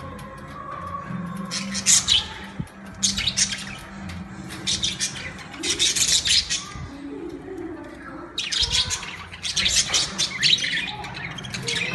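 Budgerigars chattering and chirping in repeated bouts of high, rapid calls, with short pauses between. The longest bout comes in the second half.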